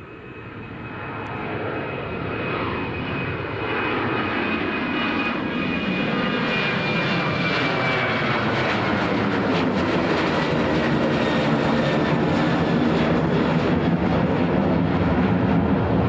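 Airliner's engines growing steadily louder over the first few seconds as it comes near, then a loud, steady roar with a high whine that slowly falls in pitch.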